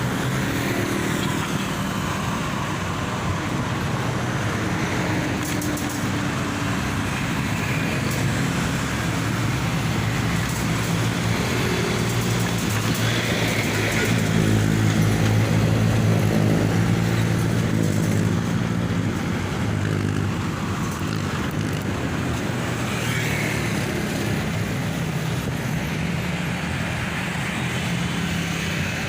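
Steady road traffic: vehicle engines running with a low hum and tyre and road noise, growing a little louder around the middle.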